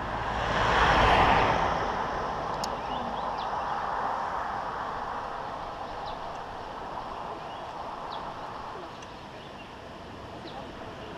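A vehicle passing by on the road, loudest about a second in, then slowly fading away. Faint short high chirps sound now and then.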